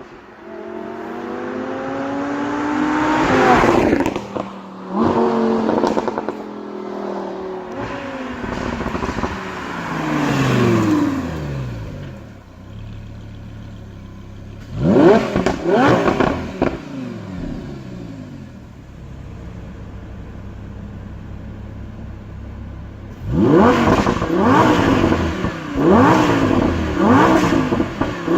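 Lamborghini Huracan LP610-4's 5.2-litre V10 climbing in revs over the first few seconds, then dropping back through a couple of falling revs to a steady idle. It is blipped sharply twice near the middle, then given a run of about five quick throttle blips near the end, with crackle from the exhaust.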